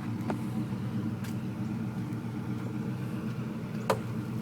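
A vehicle engine idling steadily, with one sharp click a little before the end.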